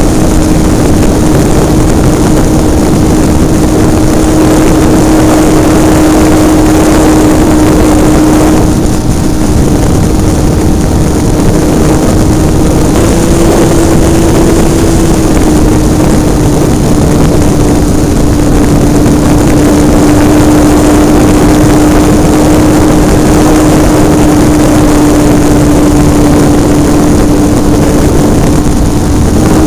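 The engine of a Hobbistar 60 RC model airplane, heard from a camera mounted on the plane, running loud and steady in flight with a single buzzing note, which climbs slightly for a couple of seconds near the middle. Air rushing over the airframe adds a steady hiss.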